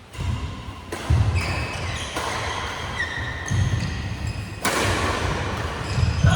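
Badminton rally on an indoor court: sharp racket hits on the shuttlecock, about a second in, near the middle and near the end, with shoes squeaking and thudding on the court floor.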